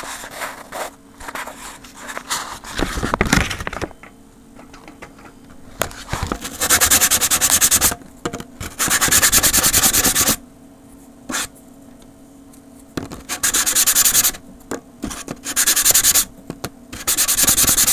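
Very fine sandpaper rubbed by hand over a freshly CNC-cut 5 mm plywood piece, in several separate bouts of rapid strokes, each lasting one to two seconds, with a few softer handling noises in the first seconds.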